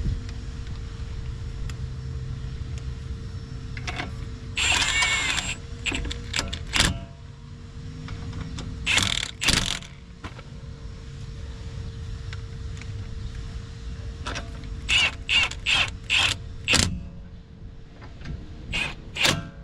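Milwaukee cordless impact wrench run in short bursts, running the lug nuts onto the wheel. There is one longer run about four seconds in, two brief bursts around nine seconds, a quick string of five near the fifteen-to-seventeen-second mark, and two more near the end.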